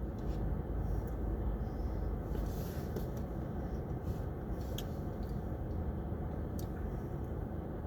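Steady low rumble of a car cabin, with a few faint small clicks scattered through it.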